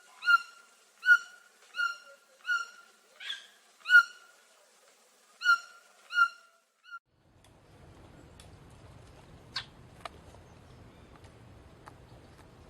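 A bird repeating a short, clear single-note call, about one every 0.7 seconds, for about seven seconds; then the calls stop and only a faint background hiss and hum with a few soft clicks remain.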